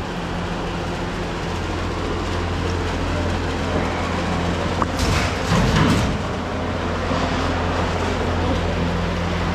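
A vehicle engine running with a steady low hum, with a brief rattling clatter about five seconds in.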